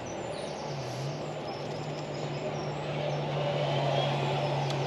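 A car running at low speed: a steady low engine hum with road noise, growing slightly louder.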